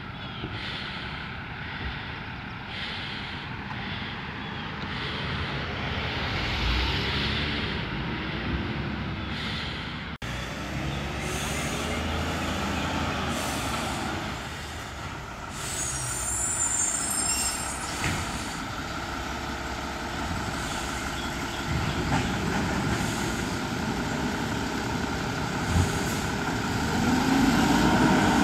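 Mack LR garbage truck with a Labrie Automizer side-loader running at the curb, with a sharp air-brake hiss about halfway through. Near the end the engine revs up.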